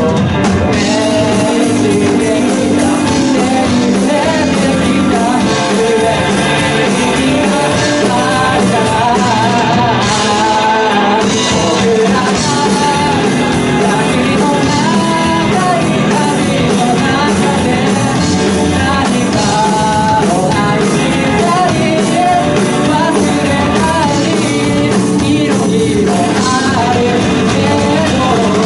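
Band music with a singer: a sung melody over drums, guitar and keyboard at a steady, loud level.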